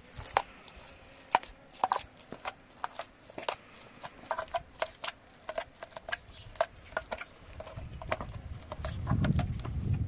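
Irregular sharp clicks and taps, several a second, with a low rumble building up and growing loud near the end.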